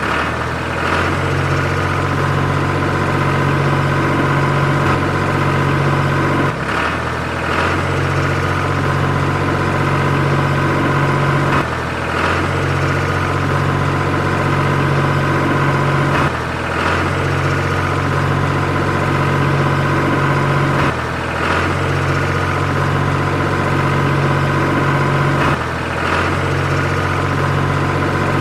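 Tractor engine idling steadily, a low hum that repeats with a brief dip about every five seconds, like a looped engine recording.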